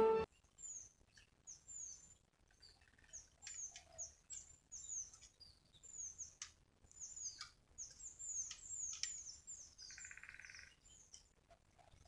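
Small birds chirping faintly: many short, very high-pitched chirps that each sweep downward, coming in quick irregular runs, with a brief buzzy note near the end.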